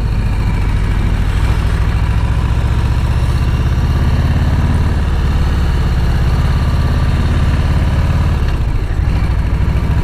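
Harley-Davidson V-twin engine running steadily with a low, even exhaust note, briefly dipping about eight and a half seconds in.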